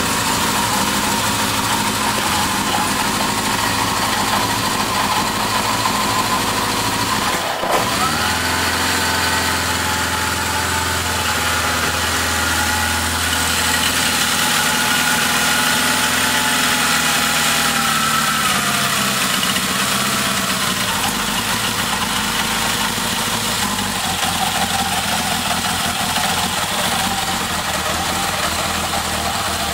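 Yamaha XS1100's air-cooled inline-four running on a homemade MegaSquirt fuel-injection setup, one of its first runs on the injection. After a brief break about seven and a half seconds in, the engine note sits a little higher, then settles back toward a steady idle around twenty seconds in.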